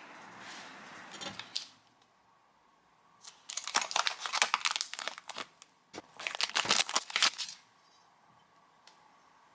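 Crinkling and crumpling of thin wrapping material such as paper or plastic being handled, in two bursts of about two seconds each, after a fainter rustle at the start.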